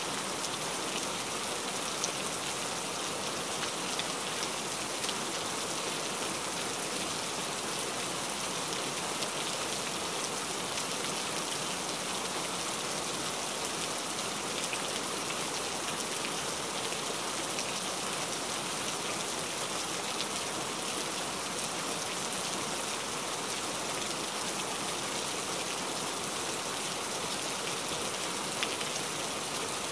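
Steady rain falling, an even hiss with a sharper drop tick here and there.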